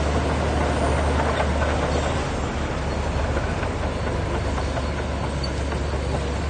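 Heavy diesel engine of a crawler bulldozer running steadily, a continuous low hum with mechanical noise over it.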